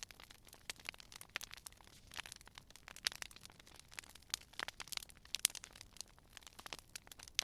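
Campfire crackling: wood burning with a steady run of irregular sharp pops and snaps over a soft hiss.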